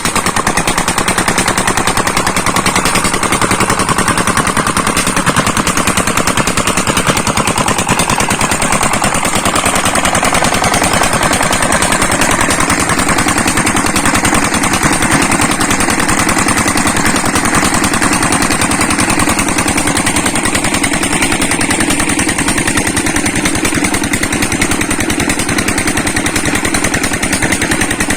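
Chinese-made Peter-type 25 hp diesel engine running steadily just after a cold start, with a fast, even knocking beat.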